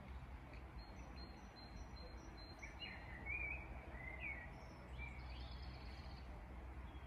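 Faint birdsong: a quick run of high, short notes, then a few chirping, gliding phrases, over a low steady hum.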